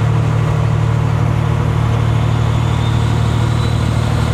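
Kenworth W900 semi-truck's diesel engine running steadily, heard from inside the cab as an even low drone.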